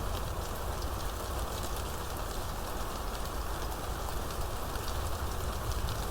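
Steady heavy rain falling, a dense patter of drops with a low rumble beneath.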